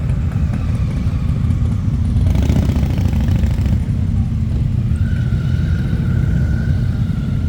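Motorcycle engines running with a steady low rumble, and a louder hissing burst about two and a half seconds in that lasts a little over a second.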